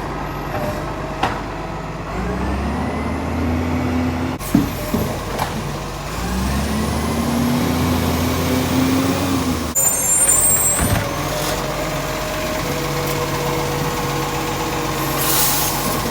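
Green-waste side-loader garbage truck's diesel engine idling, twice revving up and holding for a few seconds, with sharp metallic knocks in between and a short hiss of air near the end.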